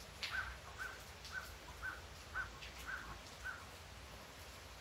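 A bird calling seven times in a quick even series, about half a second apart, each call a short arched note.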